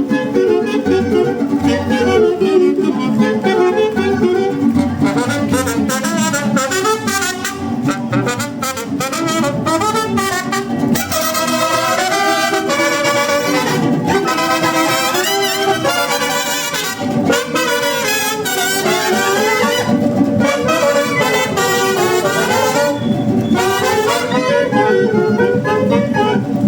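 Brass band playing a melody in unison over drums.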